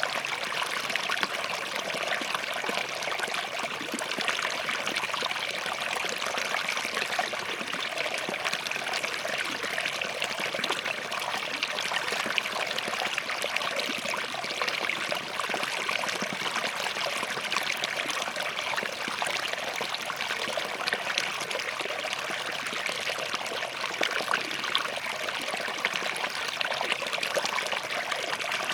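Small forest stream flowing and trickling over rocks, a steady burbling rush of water.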